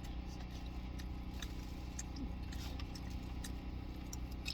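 Quiet eating sounds: scattered small clicks and taps of utensils and takeout packaging, over a steady low hum in a car's cabin.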